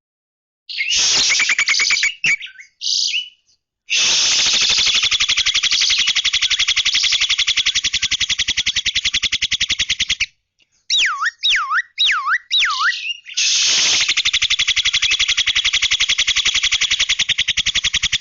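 Starling (jalak) song from a masteran training recording: two long, fast, buzzing rattles with four looping whistles between them, each rising and falling.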